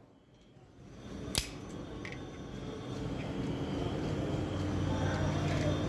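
A single sharp click about a second and a half in, then a steady low hum that builds up and holds from about three seconds in.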